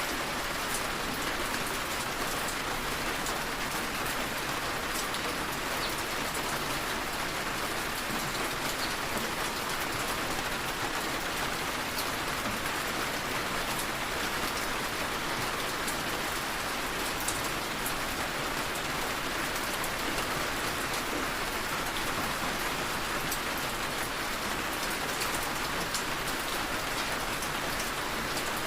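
Steady rainfall with scattered drops tapping, a soft even hiss.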